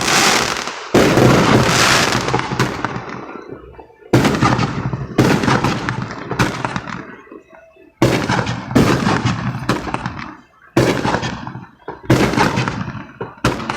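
Fireworks going off in quick succession: about a dozen sharp bangs, each fading out over about a second before the next.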